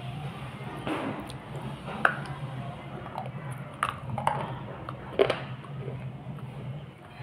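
A soft slate pencil being bitten and chewed close to an earphone microphone: wet chewing with about five sharp crunches at irregular intervals.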